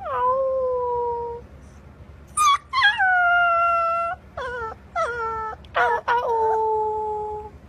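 A dog howling in a run of drawn-out, pitched calls, each dropping at the start and then held steady, with shorter yelps between the two longest howls.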